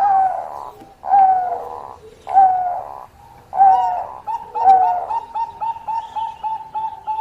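Zebra dove (perkutut, Bangkok strain) singing: about five loud, falling coos roughly a second apart, then from about four seconds in a fast run of short, clipped notes, several a second.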